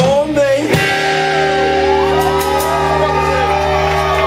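Live rock band ending a song: a final hit about a second in, then a held chord ringing out while voices shout and whoop over it.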